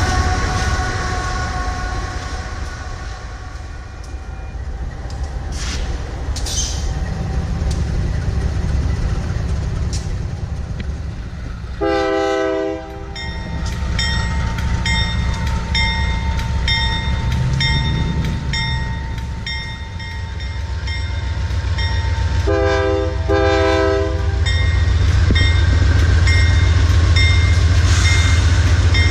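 Union Pacific GE diesel freight locomotives rumbling past at close range. An approaching train's Nathan K3HA three-chime horn sounds one short blast about twelve seconds in and two quick blasts about twenty-three seconds in, while a bell dings at a steady pace. Near the end the rumble grows loud as the lead locomotives pass close by.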